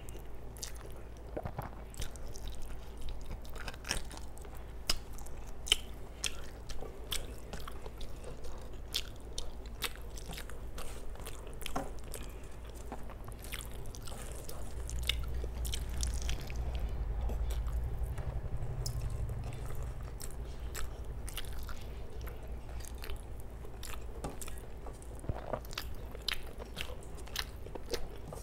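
Close-miked chewing and wet mouth smacks of a person eating rice and curry, with many short sharp clicks. A low rumble swells from about halfway through for several seconds.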